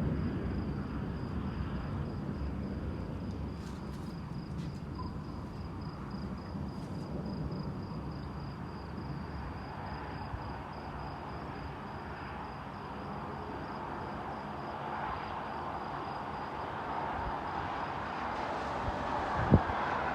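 Thunderstorm at night: the tail of a thunderclap dies away in the first second into a steady wash of storm noise, with a thin, high, evenly pulsing insect trill over it. A single sharp low thump comes near the end.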